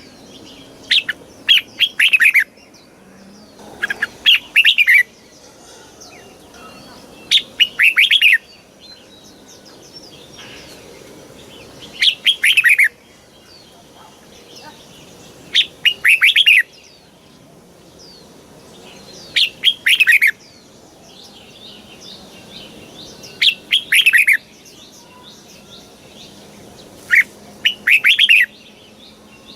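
Red-whiskered bulbul singing: short, loud, bubbling phrases of quick falling notes, each about a second long, repeated about every four seconds, eight times in all, over a faint steady background hiss.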